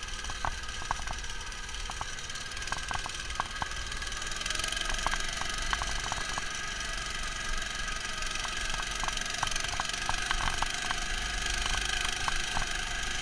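The Neva MS-1's small engine running steadily, muffled because it is heard through the camera's protective case. It grows a little louder about four and a half seconds in, and irregular light ticks are scattered through it.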